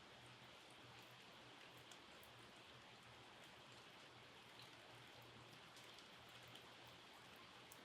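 Faint, steady rain, with scattered sharp drips ticking through it.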